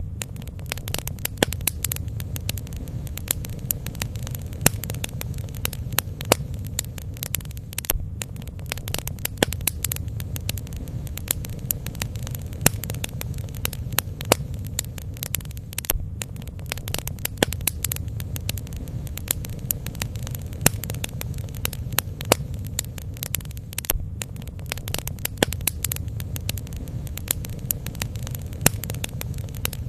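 Bonfire burning, with irregular sharp crackles and pops over a steady low rumble.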